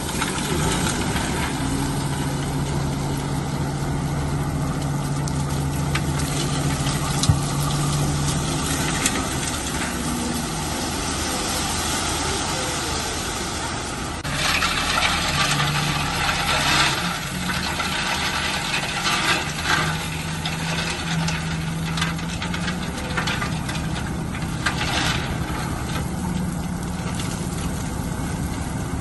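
Heavy diesel construction machine engine running steadily. From about halfway, a broad rushing noise comes and goes over the hum.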